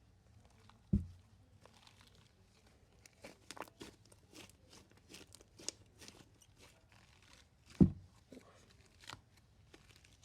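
Marshmallow slime being stretched and squeezed by hand, giving many small sticky crackles and snaps. Two louder dull thumps come about a second in and near eight seconds.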